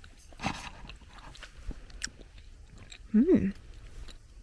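A person chewing a bite of canned luncheon meat, with soft mouth clicks and smacks. About three seconds in comes a short "mmm" hum of tasting, rising and falling in pitch.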